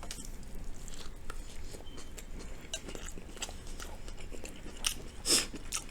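A person chewing General Tso's cauliflower, with small wet mouth clicks throughout and a louder bite about five seconds in.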